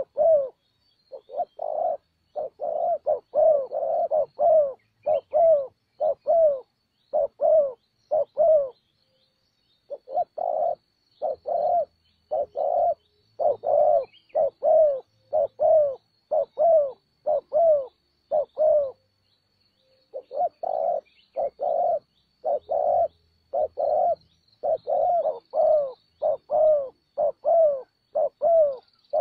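Spotted dove cooing: a rapid run of short, low coos, about two a second, in three long bouts with brief pauses about nine and nineteen seconds in.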